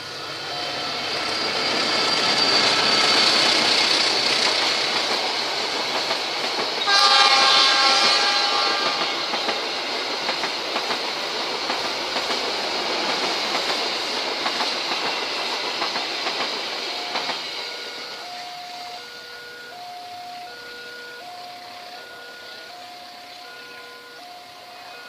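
A diesel-hauled passenger train passes at speed, its wheels clattering on the rails, the noise building and then fading. About seven seconds in the locomotive's horn sounds in a blast of about two seconds. Once the train has gone, the level-crossing alarm is left chiming in an even repeating pattern of about one chime a second.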